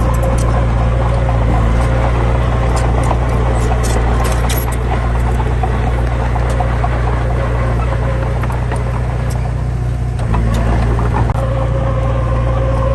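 Heavy diesel machine engine running steadily at low revs, with a faint whine over it that fades away in the middle and comes back near the end.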